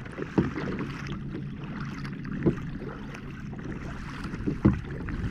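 Kayak being paddled: water washing with a sharp knock roughly every two seconds, the paddle hitting the kayak, over a steady low hum.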